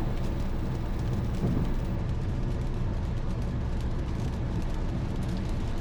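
A car driving in the rain: a steady low rumble of road and engine noise with an even rain hiss over it.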